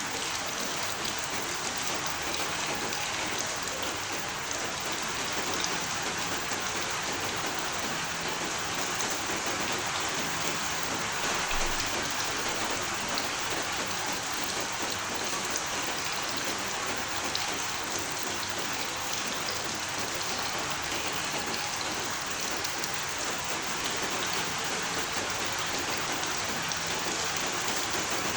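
Steady heavy rain falling, a dense even hiss with scattered drop patter.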